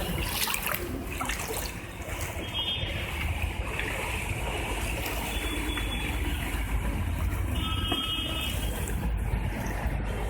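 Floodwater sloshing and trickling under a steady low rumble, with short high beeping tones twice.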